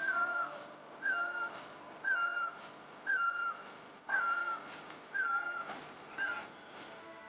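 A bird calling a short whistled note that dips slightly in pitch, repeated about once a second.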